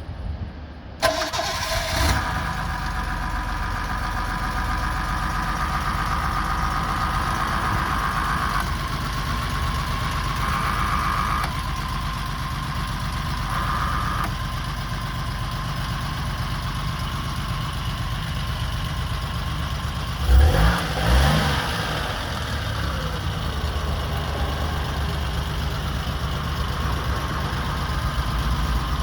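1972 Citroën SM's Maserati V6 on a cold start: it fires about a second in and settles into a steady idle. There are a couple of short blips of the throttle about two-thirds of the way through.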